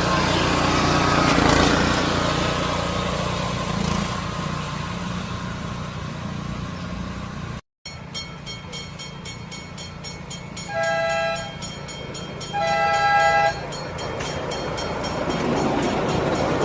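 A small heritage train running with a steady rumble. After a break, its horn gives two short two-tone toots, the second a little longer, and the running noise builds again near the end.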